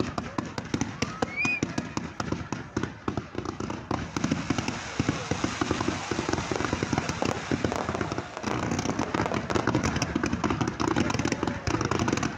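Fireworks display: a dense, continuous run of crackling pops and bangs, many per second, that starts abruptly and keeps up throughout.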